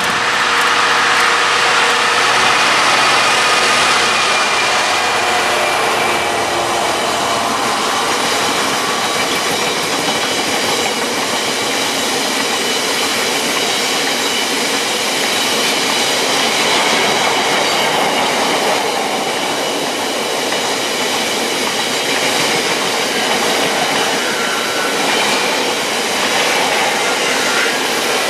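Freight train of biomass hopper wagons passing close by. The locomotive goes past in the first few seconds, when it is loudest, followed by a long steady rush and rumble of wagon wheels on the rails with thin high ringing tones.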